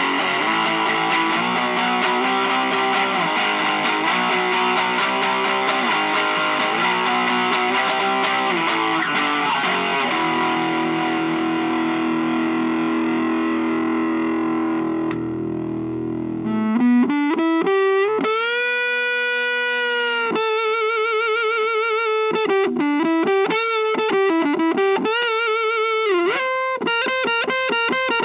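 Electric guitar played through a VOX Lil Night Train 2-watt tube amp head on its high-gain Thick voice, distorted. It plays a fast rhythm riff, then a held chord left ringing, then, about two-thirds of the way through, a single-note lead with string bends and wide vibrato.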